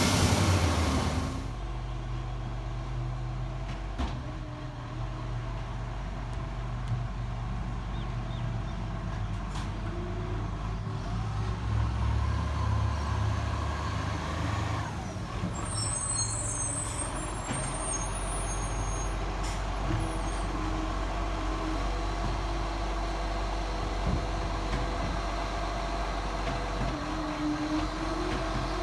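Diesel garbage truck engine running steadily, with a loud burst of noise in the first second or so.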